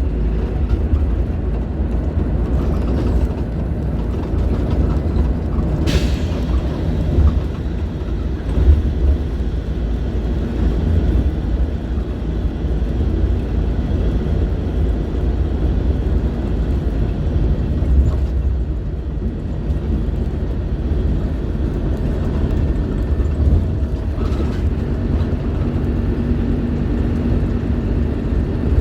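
Scania K310IB bus engine running steadily under way, a continuous low diesel drone. A single sharp clack about six seconds in, and a steady low hum joins the drone near the end.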